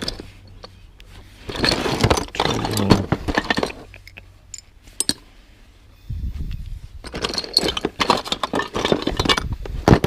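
Small hard objects clinking, clattering and scraping against each other as a box of odds and ends is rummaged through, in two spells of handling, with a dull low scrape or shove about six seconds in.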